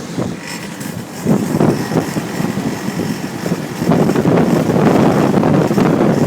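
Gale-force wind of about 50 to 60 mph rushing past and buffeting the microphone in uneven gusts, louder from about four seconds in.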